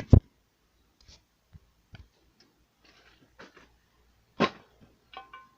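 Scattered light clicks and knocks of metal engine parts being handled, with one louder clunk about four and a half seconds in and a short metallic clink that rings briefly near the end.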